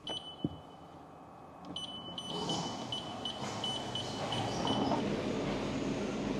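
A held electronic beep, a sharp click, then a run of quick high beeps about three a second, over a rising steady rumble.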